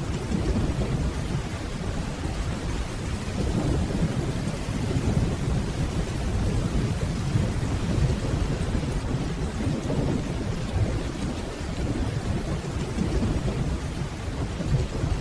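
Steady rainfall under a continuous low rumble of distant rolling thunder.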